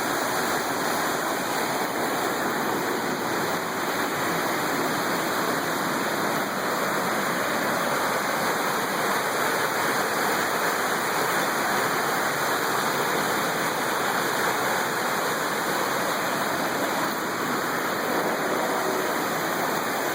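Steady rushing of a river in flood, fast high water pouring past in an even, unbroken roar.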